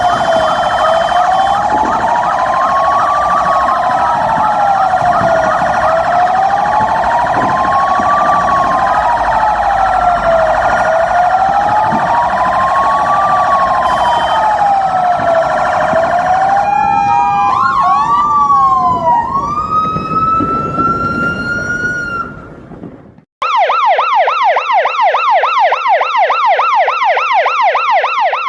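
Fire truck's electronic siren. It plays a slow wail rising and falling about every five seconds, switches through quicker changing tones about seventeen seconds in and winds down, then after a brief cut plays a fast yelp of about four warbles a second.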